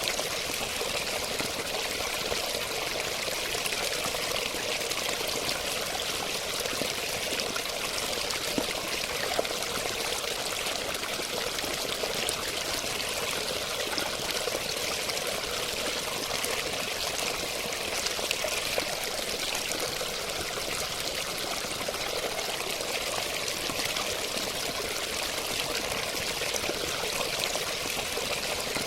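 Running water: a steady stream pouring and splashing, an even rushing hiss with no pauses.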